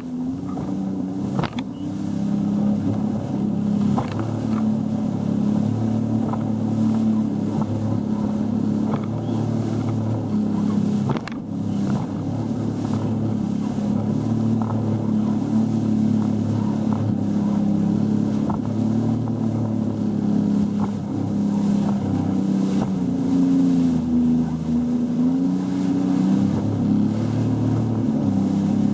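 A boat's motor running steadily under way, a low drone whose pitch rises briefly and settles back about two-thirds of the way through.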